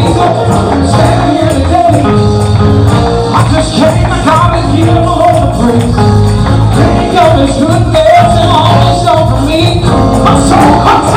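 Live gospel music with a band, a tambourine and singing voices.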